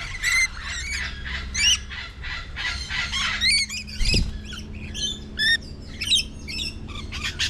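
Captive birds squawking: a quick run of short, harsh calls, about two or three a second, with a low thump about four seconds in.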